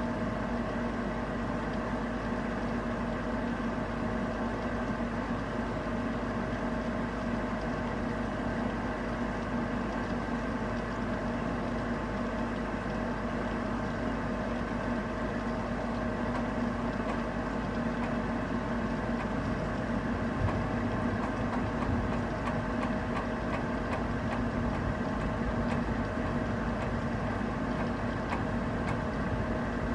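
Steady rain during a thunderstorm, over a constant low mechanical hum. From about two-thirds of the way in, scattered clicks of raindrops hitting the microphone join in.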